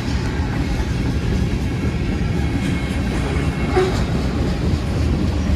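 Freight train rolling past, its cars making a steady rumble on the rails.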